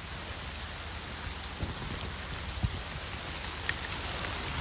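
Heavy rain pouring steadily, an even hiss of drops, with a few soft knocks.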